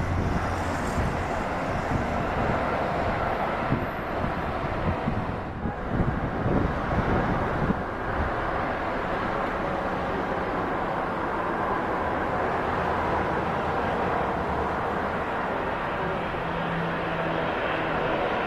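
Jet airliner engines running steadily as an arriving Airbus A330-243F freighter passes, its engines Rolls-Royce Trent 700s. The first half carries uneven buffeting of wind on the microphone.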